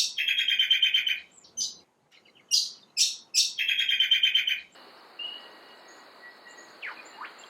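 Pacific koel calls: short high falling notes and a rapid, even trill of about a second, given twice. About five seconds in they give way to a fainter stretch with a steady high hiss and a few faint chirps.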